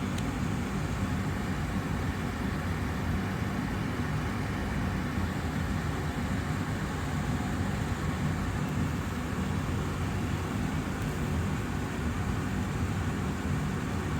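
Austin Air HealthMate air purifier's fan running steadily, a constant low rushing hum of air.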